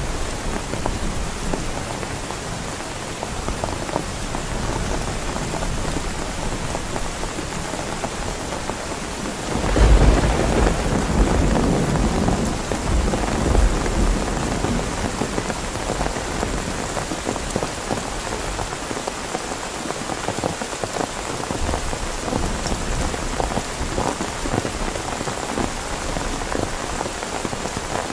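Heavy rain falling steadily, with a long rumble of thunder about a third of the way through that swells twice before fading back under the rain.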